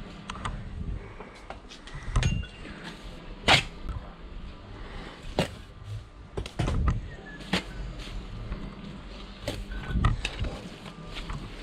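Blockwork being laid: irregular sharp taps and clicks of a steel trowel on concrete blocks and mortar, with a few duller knocks of blocks being set down. The loudest tap comes about three and a half seconds in.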